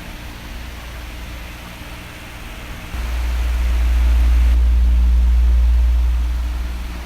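Oscillating electric fan blowing a steady airy hiss. About three seconds in, a deep rumble of air on the microphone swells up, holds for a few seconds, then fades near the end as the fan turns away.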